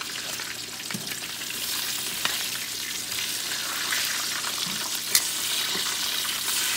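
Pork belly frying in hot oil in a skillet: a steady sizzle with crackling and a few sharp pops, as metal tongs turn the pieces in the pan.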